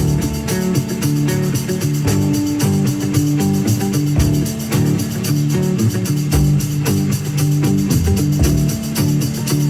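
Live rock band playing instrumentally: electric guitar, bass guitar and drums keeping a steady beat.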